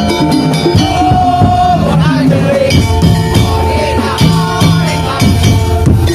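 Tongtong/daul percussion ensemble playing: drums beat a dense rhythm under ringing pitched metal percussion, and a held melody note slides downward about two seconds in.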